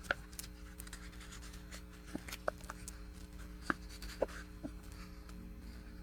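Light clicks, taps and scratches of small objects handled on a craft table, about a dozen scattered ones, the sharpest near the start and a little past halfway, over a steady low electrical hum.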